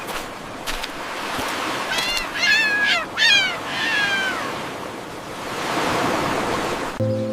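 Several short, high animal calls, each falling in pitch, come in a quick cluster about two seconds in, with a longer falling call just after. All of them sit over a steady rushing noise.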